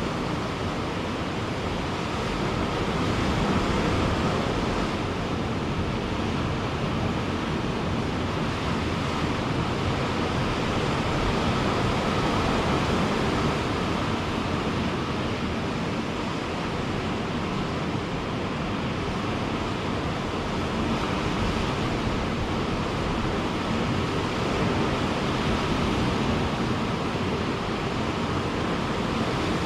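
Ocean surf on a beach: a steady wash of breaking waves, swelling and easing gently in loudness.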